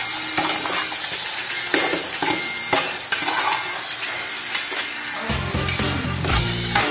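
Chicken pieces sizzling in a pot while they are stirred, with repeated short scraping strokes against the pot. Music comes in about five seconds in.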